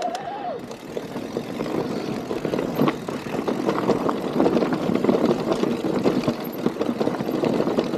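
Mountain bike rolling along a dirt forest trail: continuous tyre noise over the ground, peppered with quick clicks and rattles from the bike over bumps.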